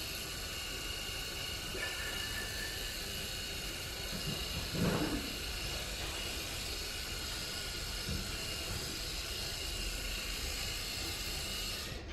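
Steady background hiss with a faint high whine, cutting off suddenly near the end, and one short louder sound about five seconds in.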